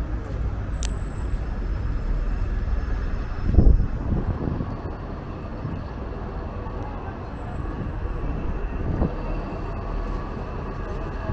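Strong wind buffeting the microphone: a heavy, uneven low rumble, with a louder gust about three and a half seconds in.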